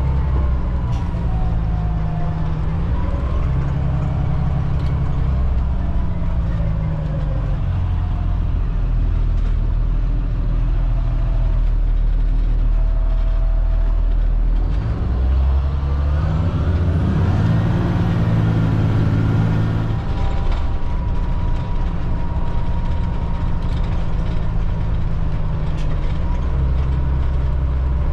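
Cat C7 diesel engine of a Blue Bird All American front-engine bus pulling under way, heard from the driver's seat; its note drops and rises with the throttle and climbs steadily about halfway through as the bus accelerates, with a faint high whistle above it.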